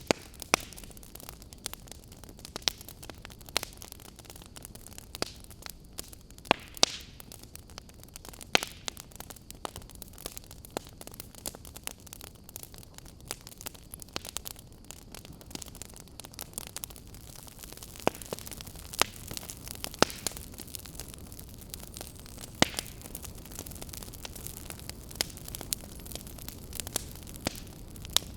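Wood fire in a fireplace crackling: irregular sharp pops and snaps over a steady hiss, with a few louder pops scattered through.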